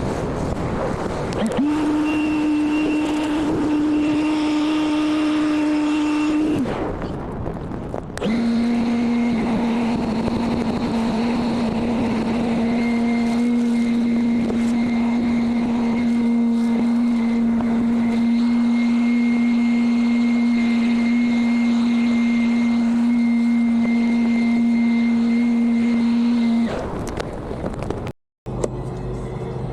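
Battery-powered cordless tool's electric motor running with a steady hum. Its pitch steps up a little after about a second and a half, it stops about six seconds in, then starts again a second or two later and runs evenly until it shuts off near the end.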